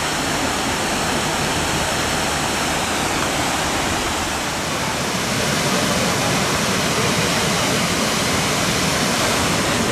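Waterfalls of the Big Sioux River cascading over rock: a steady, loud rush of falling water.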